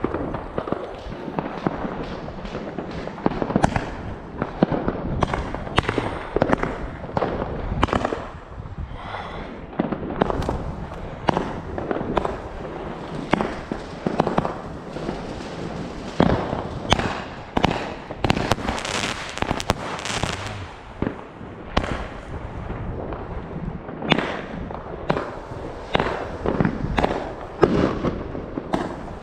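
Consumer firework battery (cake) firing shot after shot: an irregular string of sharp bangs, about one or two a second, over a continuous crackle.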